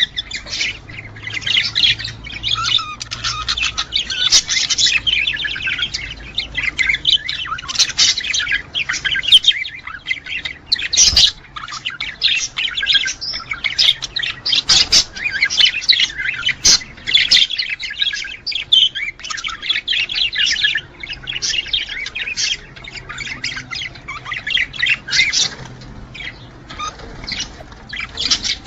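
Budgerigars chattering: an unbroken run of quick chirps, warbles and harsh squawks, the breeding-time warbling of male budgies.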